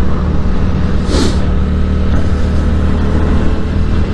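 Yamaha MT-07's 689 cc parallel-twin engine running steadily at road speed, with wind rushing over the microphone. About a second in, an oncoming car rushes past, its sound dropping in pitch.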